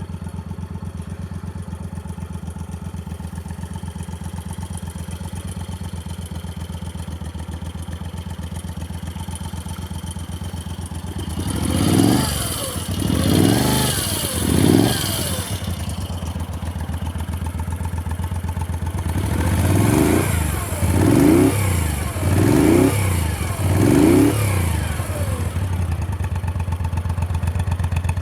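1983 Moto Guzzi V35C's air-cooled 90° V-twin, breathing through SITO aftermarket silencers, idling steadily. About eleven seconds in, the throttle is blipped three times, and from about twenty seconds in four more quick revs follow, each rising and falling back to idle.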